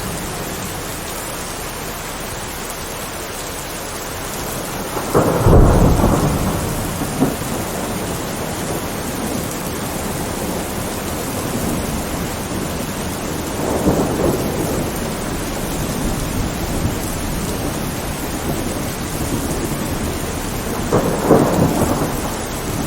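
Steady heavy rain with thunder rumbling three times: a loud crack-and-roll about five seconds in, a softer roll around the middle, and another near the end.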